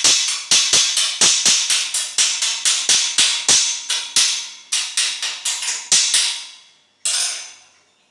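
Hammer rapidly striking steel, about five sharp ringing blows a second, as in grille fabrication work. The blows stop about six seconds in, with one last strike a second later.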